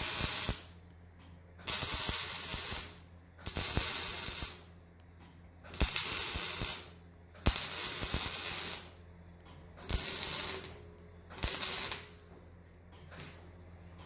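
Arc welding in short stitch-weld bursts of sizzling hiss, seven of them, each about a second long with brief pauses, filling holes and cracks in a rusty steel tractor seat. A steady low hum runs underneath.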